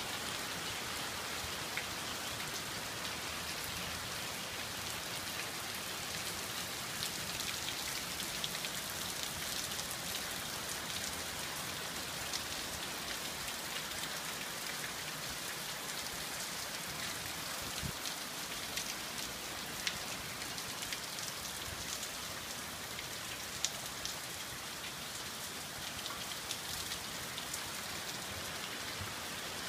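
Steady rain: an even hiss of falling rain with many scattered sharper drop taps, and a few louder single taps in the second half.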